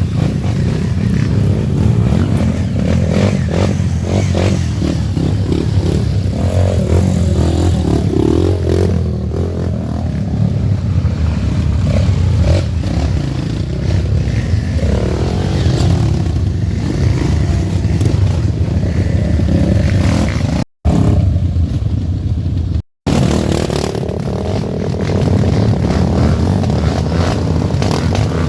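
Off-road trail motorcycles running and revving, with rattling and clatter. The sound cuts out for an instant twice, about two-thirds of the way through.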